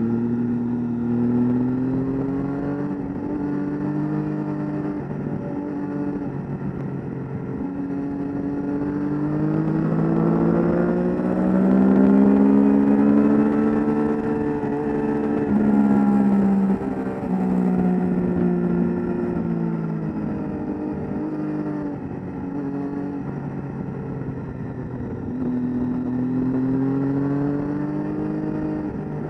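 Sport motorcycle engine at track speed, heard from a camera on the bike. Its pitch climbs in steps with short breaks as it shifts up, peaks about halfway through, then falls as the bike slows for a corner, and rises again near the end.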